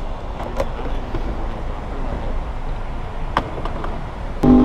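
Yamaha R1 inline-four engine rumbling low with a few light clicks, then near the end the throttle opens and the engine note jumps suddenly loud and steady.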